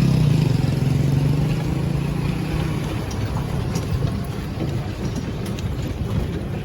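A motor vehicle's engine running, loud at first and fading away over the first three seconds, leaving a quieter low rumble with a few faint ticks.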